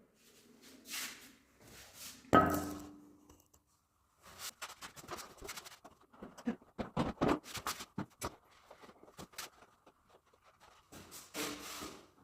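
Handling and fitting of a wall mirror and its mounting: one loud knock with a short ring about two seconds in, then a run of clicks and taps, and rubbing near the end.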